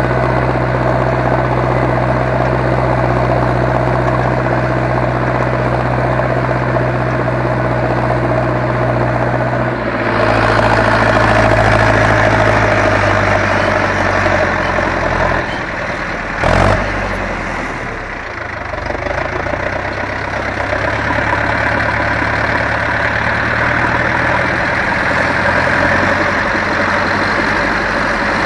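Zetor 7245 tractor's four-cylinder diesel engine running steadily under ploughing work. About ten seconds in the engine note shifts and gets a little louder; a few seconds later it drops back, with one sharp knock midway, then settles into steady running again.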